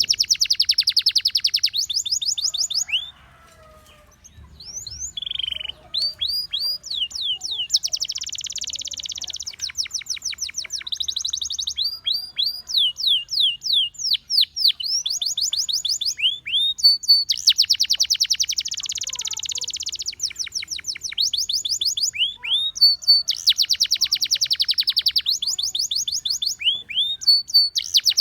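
Gloster canary singing: fast rolling trills alternating with series of quick rising whistled notes, with a brief pause about three seconds in.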